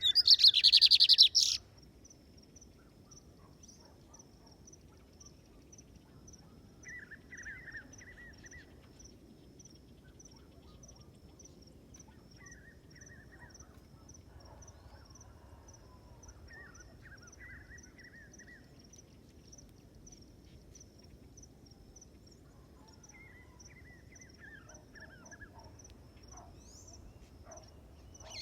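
A lined seedeater (bigodinho) sings one short, loud, fast high-pitched trilled phrase at the start. Faint, softer chirping phrases from other birds follow every few seconds, over a steady faint high ticking of insects.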